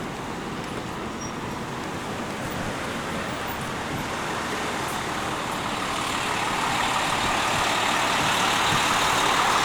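Road traffic noise: a steady rush of vehicles, growing louder over the last few seconds as one approaches.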